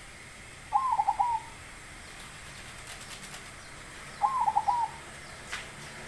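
Zebra dove (perkutut) cooing: two short phrases about three and a half seconds apart, each a first note followed by a quick run of three or four notes.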